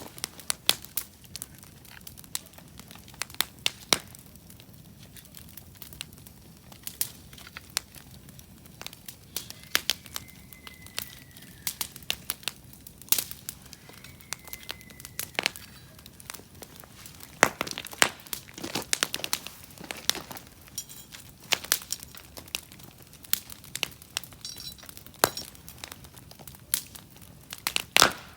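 Wood campfire crackling, with irregular sharp pops and snaps from the burning logs, coming thicker in the second half.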